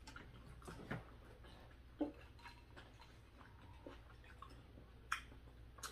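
Faint close-up chewing and mouth sounds of people eating steak off a skewer, with a few scattered sharp clicks.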